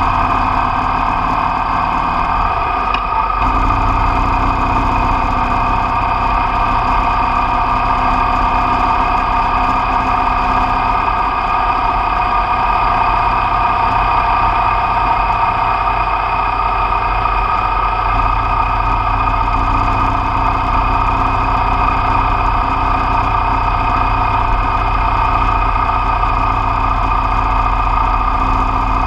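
Motorcycle engine running steadily while riding at road speed, with a brief change in the engine note about three seconds in.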